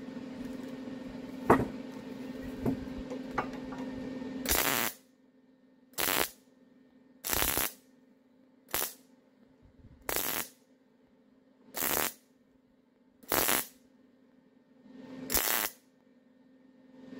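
Wire-feed (MIG) welder arc crackling through a continuous bead for about five seconds, with a few sharp pops. It then welds in seven short spurts about a second and a half apart, stitching around a washer, over a steady low hum.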